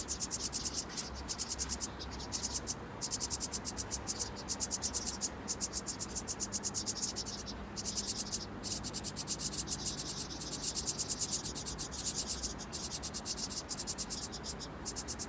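Crickets chirping: rapid, even pulse trains, high-pitched, broken by short pauses, over a faint low hum.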